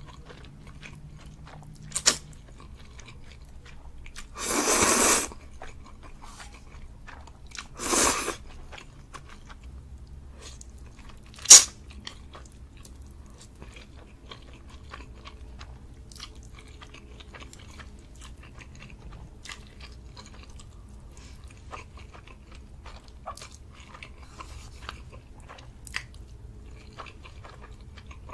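Close-miked mouth sounds of someone eating spicy noodles: steady small wet chewing clicks, with two louder drawn-out slurps about four and eight seconds in. A sharp click about eleven seconds in is the loudest sound.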